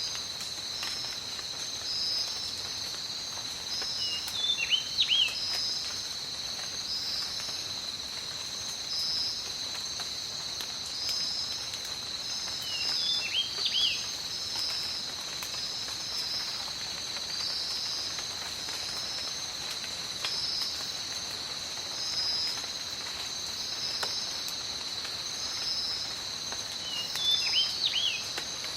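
Tropical forest insect chorus: a steady high buzzing with a second trill pulsing about once a second above it. A bird calls three times, each call a short phrase of quick falling notes.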